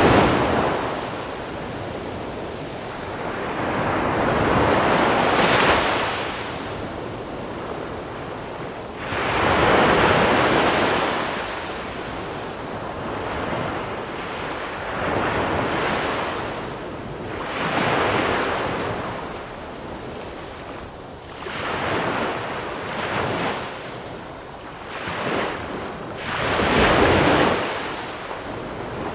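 Sea waves breaking on a pebble shore, washing in surges every few seconds, the water hissing over the small pebbles, with some wind on the microphone.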